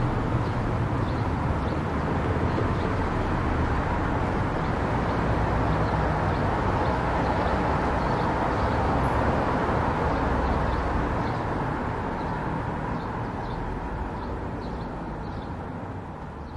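A car driving on a road: steady road and engine noise with a faint regular high ticking, fading out gradually over the last few seconds.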